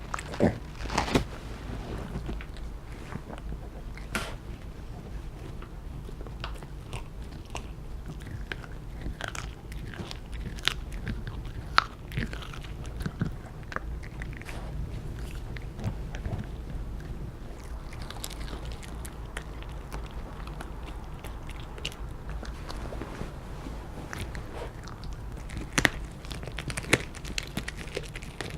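A dog crunching and chewing a chicken wing, the bones cracking irregularly, with a few louder cracks about a second in, midway and near the end.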